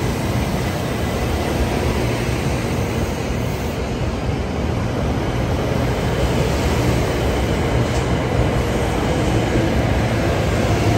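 Doctor Yellow, the 923 series Shinkansen inspection train, running past along the platform: a steady rumble of wheels and running gear with a low hum, growing slightly louder about halfway through.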